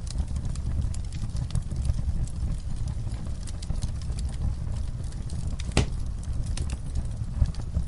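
Wood fire crackling: a steady low rumble of flames with irregular small pops, and one sharper snap about three-quarters of the way through.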